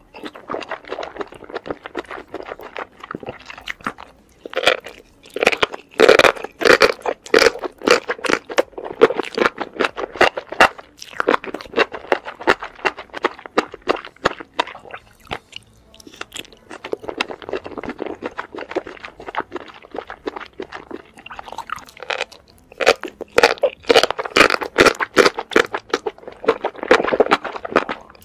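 Close-miked chewing of enoki mushrooms and squid in chili sauce: dense, rapid crunchy clicks and mouth sounds that ease off for a few seconds in the middle and come back loud near the end.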